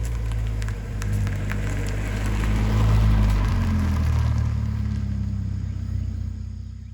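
Toyota GR86 / Subaru BRZ 2.4-litre flat-four running through a COLBASSO Ti-R Plus straight-through titanium single-exit exhaust while driving. The engine note rises to a peak about three seconds in, then fades out near the end.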